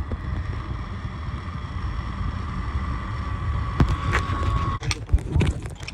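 Zip line trolley pulleys running along the steel cable: a steady whine that sinks slightly in pitch and cuts off almost five seconds in, over wind rumbling on the microphone. A few sharp knocks follow near the end.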